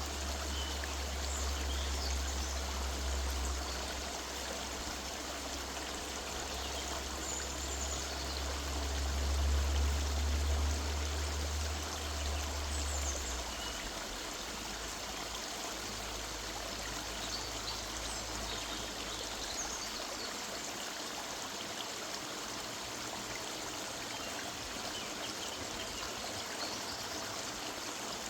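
River water running steadily, with faint high bird chirps here and there. A low rumble sits under the water for the first half and fades out about halfway through.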